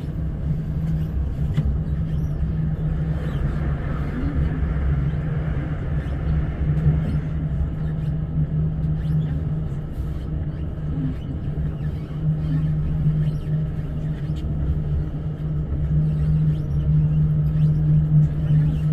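Class 345 Elizabeth line electric train heard from inside the carriage while running: a steady low rumble of wheels on rail with a constant low hum, swelling slightly near the end.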